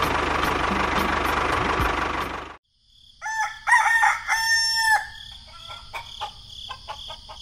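A steady motor running, as from the mini tractor, for about two and a half seconds, cutting off suddenly. Then a rooster crowing once, followed by faint clicks over a steady high hum.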